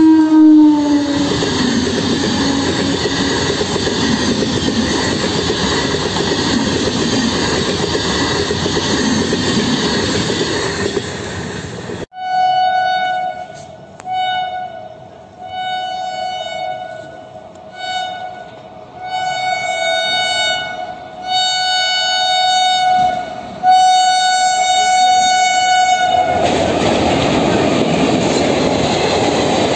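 Electric multiple unit local train's horn, dropping in pitch as the train passes, then the steady rush of its wheels and coaches going by. Then an express train's horn in repeated short blasts about a second apart, the last one longer, followed by the loud rush of the express passing.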